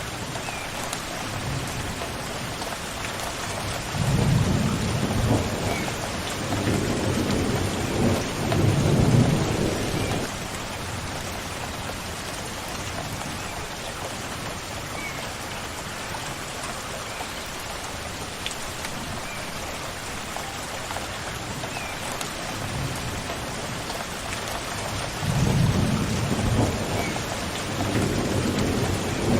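Steady rain falling, with two long low rolls of thunder, one starting about four seconds in and lasting several seconds, another building near the end. A few faint bird chirps can be heard through the rain now and then.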